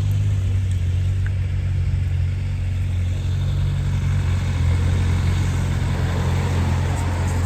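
Steady low engine hum of road traffic, unchanging throughout.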